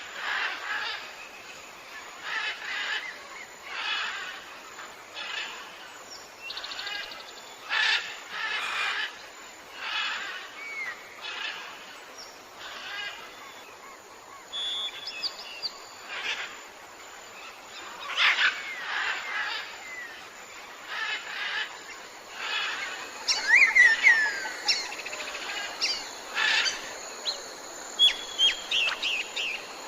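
A chorus of many birds calling, with repeated short notes and whistled sweeps from several species over a steady background hiss, busiest about two-thirds of the way through.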